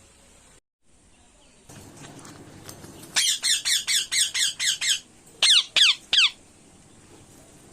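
Indian ringneck parakeet calling: a quick run of about eight high-pitched squawks, then three more, each call falling in pitch.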